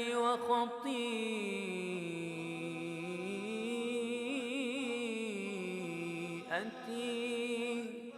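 Male voice chanting an Arabic ibtihal, holding one long melismatic note that slides slowly down, wavers in the middle and climbs back up, with a brief break near the end.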